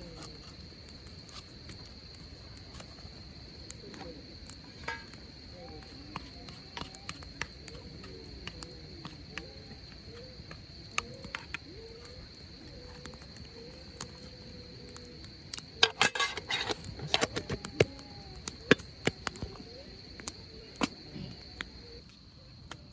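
Steady high-pitched chorus of crickets, which drops out shortly before the end, with a hardwood campfire crackling and popping throughout and a dense run of loud pops about two-thirds of the way through. Faint voices murmur in the background.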